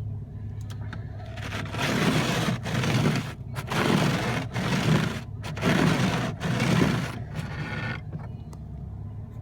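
About six rhythmic scraping strokes across snowy, icy car glass, each under a second, with a car engine idling steadily underneath.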